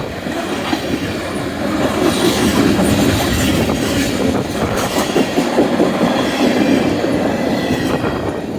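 Canadian National mixed freight train rolling past close by, with a steady clatter of steel wheels on the rails.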